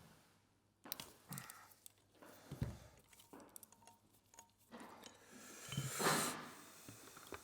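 Scattered light clicks and knocks of hand tools and metal parts being handled while an oil pump is taken apart, with one louder noise lasting about a second, about six seconds in.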